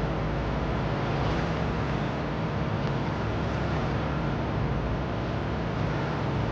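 Boat engine running steadily: a low, even drone under a steady hiss.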